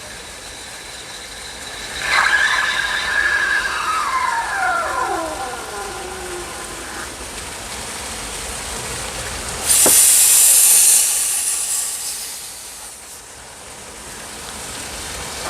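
Lelit Grace espresso machine steam wand hissing, with whistling tones that fall in pitch over a few seconds. About ten seconds in a click is followed by a short, loud burst of steam hiss that trails off, typical of purging the wand after steaming milk.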